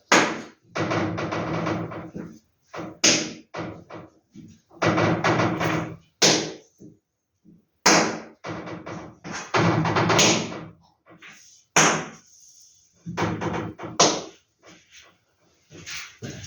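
Paper posters being handled: repeated rustling and sliding lasting a second or two each, with sharp knocks and taps between them.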